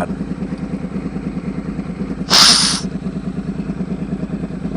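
Motorcycle engine running steadily, a low even drone with a fast pulse. About two and a half seconds in, a loud hiss lasting about half a second cuts over it.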